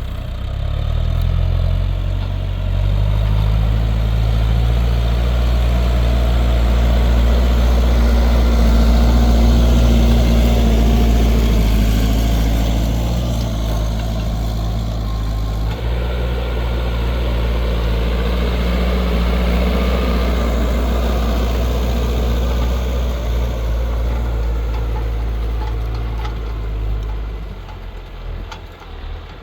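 New Holland TL100 tractor's diesel engine working hard while pulling a plough through very hard, trampled soil. The revs rise in the first couple of seconds, then it pulls steadily under load, easing off near the end.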